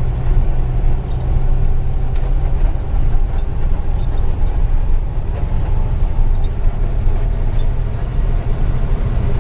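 Diesel truck running steadily on the move, heard from inside the cab: a constant low engine drone with road noise and a few light clicks and rattles.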